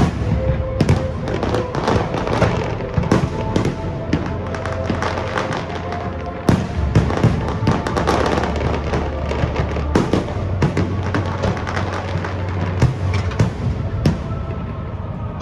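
Fireworks display: shells bursting with repeated sharp bangs and crackle, the strongest bangs about six and a half and ten seconds in. Music plays with held notes underneath.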